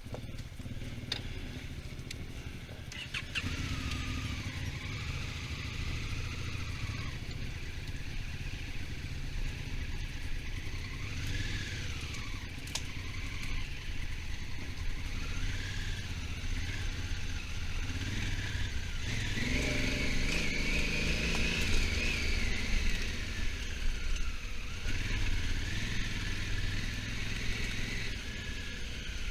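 Honda Africa Twin's twin-cylinder engine running under way, its note rising and falling with the throttle. It pulls hardest and loudest about two-thirds of the way through.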